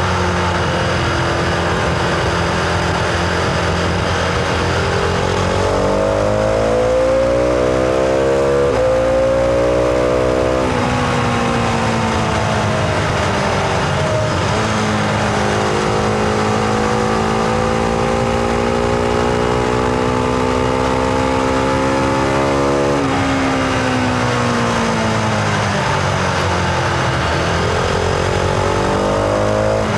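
Husqvarna Vitpilen 701's single-cylinder engine on the move: it pulls up through the revs with a brief step, as at a gear change, drops back and holds a steady cruise, then the revs fall away on closing the throttle before it picks up and accelerates again near the end.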